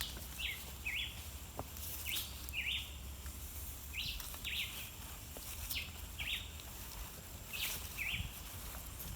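A bird repeating a short two-note call, five times about two seconds apart, over a low steady rumble.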